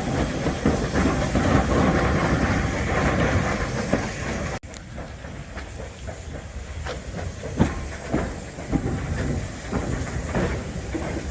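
Steam locomotive hissing steam, with scattered knocks and clanks. The sound cuts off sharply a little under halfway through and gives way to quieter train noise with occasional knocks.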